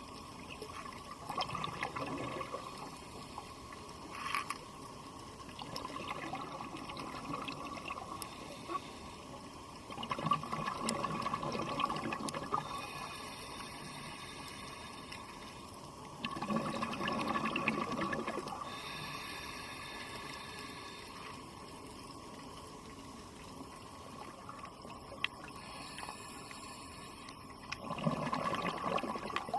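Scuba diver breathing through a regulator underwater: bubbling exhalations every several seconds, alternating with the hiss of the regulator on each inhalation.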